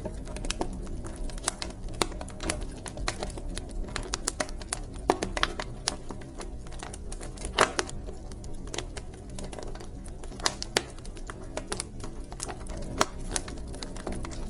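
Wood fire crackling in a fireplace: irregular sharp snaps and pops, several a second, over a steady low rumble of burning. The strongest pops come about five seconds in and just past the middle.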